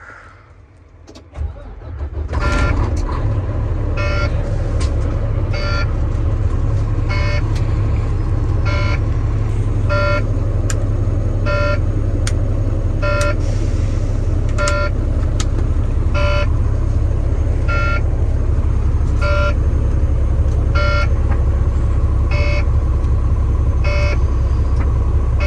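A semi truck's diesel engine starts about two seconds in and settles into a steady idle. Over it the dash low-air warning beeps about every one and a half seconds: the air brake system has no pressure yet.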